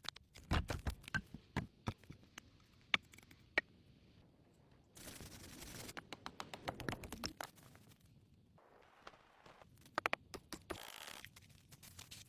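Irregular sharp knocks and clicks with scraping, as from hands working with sticks and soil, coming in a few short segments with a steady hiss behind some of them.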